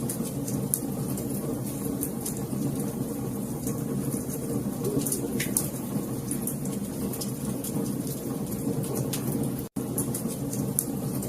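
Wood fire crackling in a fireplace: a steady low rush of burning with frequent sharp pops and snaps. The sound cuts out for a split second near the end.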